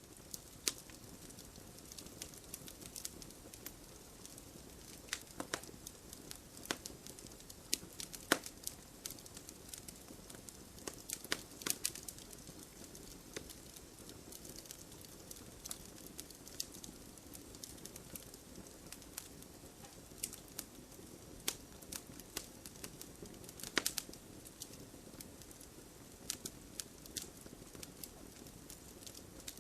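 Wood fire burning in a fireplace, the logs crackling with irregular sharp pops and snaps over a steady low rush of the flames.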